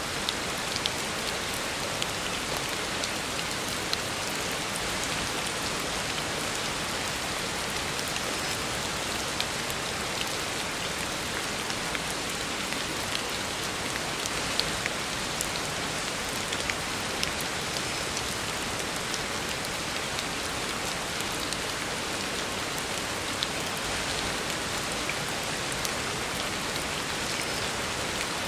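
Heavy rain falling steadily on a road surface, an even hiss with scattered sharper drop splats.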